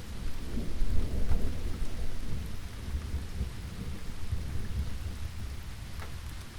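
Steady rain falling, with a low rolling rumble of thunder underneath that is strongest in the first half and dies away toward the end.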